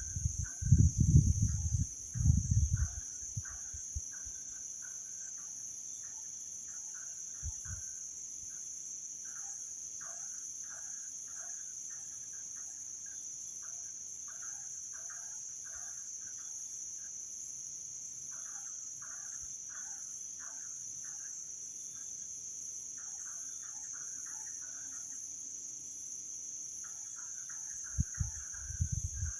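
Steady high-pitched insect chorus, crickets trilling without a break, with irregular short chirping calls over it. Loud low rumbling thumps in the first couple of seconds and again near the end.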